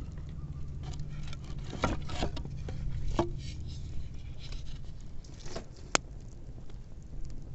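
Wood bonfire crackling, with scattered pops and one sharp snap about six seconds in, over a low steady rumble.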